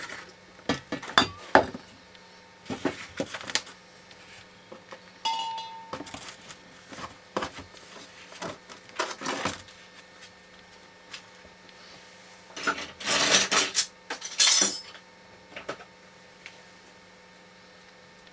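Metal tools and parts being handled, clinking and knocking irregularly. About five seconds in, one clink rings on briefly. Around 13 to 15 seconds there are two longer, louder scraping rushes.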